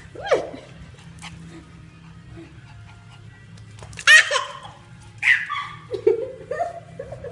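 A baby's excited squeals mixed with a pet dog's calls: a few short separate cries with quiet gaps, the loudest about four seconds in, and lower wavering sounds near the end.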